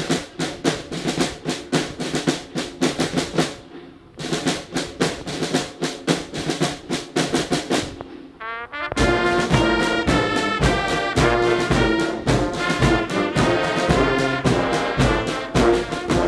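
Military brass band playing a march, with brass and a steady drum beat. It breaks off briefly twice and comes back fuller and louder about nine seconds in.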